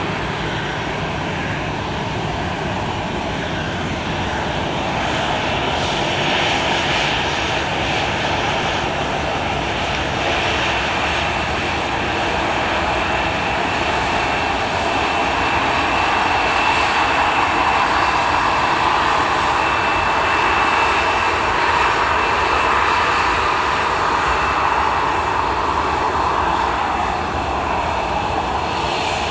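Boeing 737-700's CFM56-7B turbofan engines running on departure: a steady jet roar that swells through the middle and eases near the end, with a thin high whine over it.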